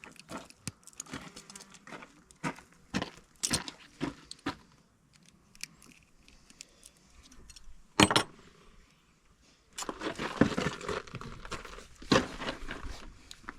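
Metal tools and battery-cable parts being handled: scattered clinks and clicks, one loud knock about eight seconds in, then a stretch of denser rattling and rustling.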